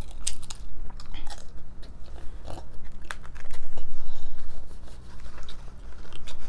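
Crunching and chewing of a hard corn taco shell, a run of short irregular crackles and crunches.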